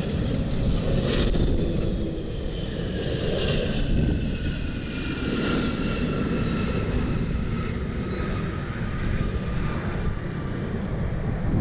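Jet aircraft engines whining and falling steadily in pitch as the jet passes, over a heavy low rumble of wind.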